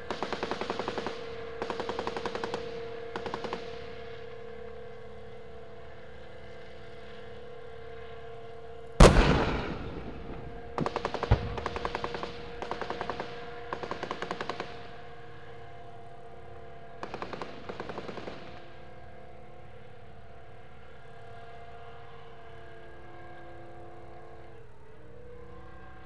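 Chieftain tank sounds: several short machine-gun bursts and one very loud cannon blast about nine seconds in that rings away. A steady engine drone runs underneath the firing. In the last several seconds only the drone is left.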